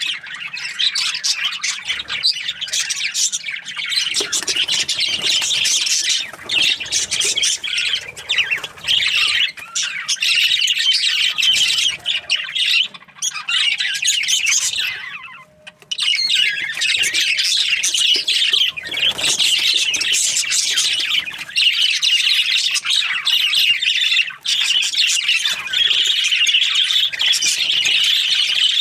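A flock of budgerigars chirping and chattering together in an aviary, a dense, continuous high-pitched twitter that dips briefly about halfway through.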